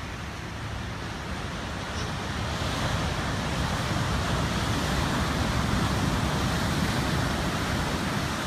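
Storm surf: the steady rush of breaking ocean waves, swelling louder about two and a half seconds in and staying up.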